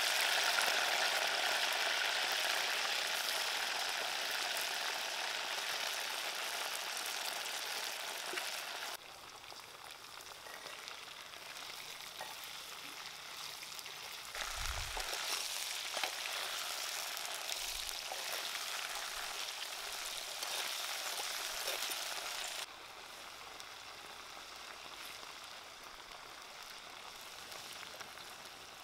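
Crickets frying in a clay pot: a steady sizzling hiss that starts suddenly loud and slowly fades, dropping to a softer level twice.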